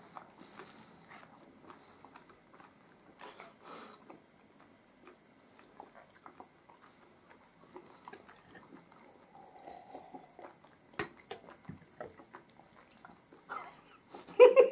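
Faint chewing and mouth sounds of people eating puff pastries, with scattered light clicks and taps.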